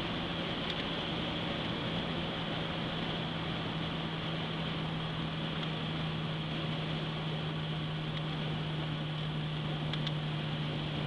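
Cabin noise of a 2005 Pontiac GTO cruising at a steady speed: its 6.0 L LS2 V8, fitted with Spintech mufflers, drones at one constant pitch under an even hiss of road and wind noise.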